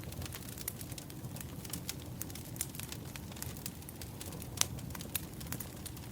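Firewood burning, with many small crackles over a low, steady rumble of flames and one louder pop about four and a half seconds in.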